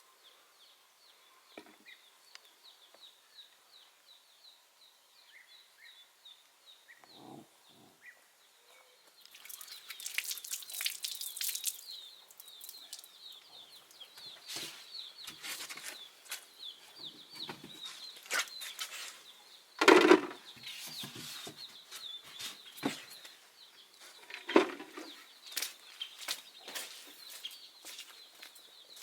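Birds chirping in a steady run of quick, high, repeated calls. From about ten seconds in, a scatter of sharp knocks and clatters joins them; the loudest knock comes about twenty seconds in.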